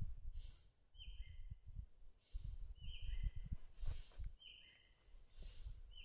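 A forest bird repeating a short call of two flat notes, the second lower than the first, about every one and a half to two seconds. Low rumbling thumps run underneath.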